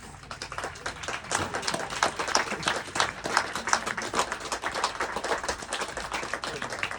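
A crowd applauding, many quick irregular claps that build up about half a second in and keep going.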